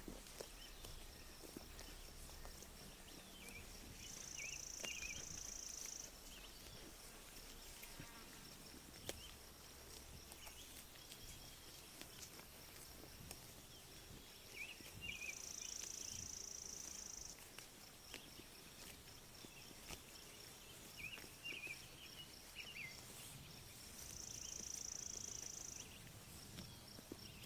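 Quiet pasture ambience: sheep grazing, with faint scattered clicks of grass being torn and chewed, and small birds chirping now and then. A high buzz comes in three times, about two seconds each, and is the loudest sound.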